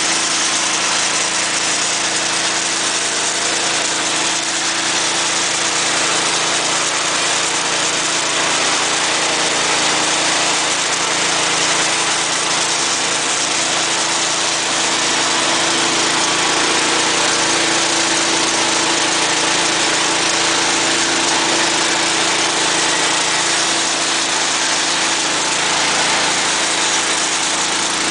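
Petrol engine running steadily, driving a feed extruder, with an even, unchanging mechanical noise and a steady hum.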